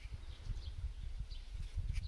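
A small bird chirping, short high calls repeated about every half second, over a low fluctuating rumble.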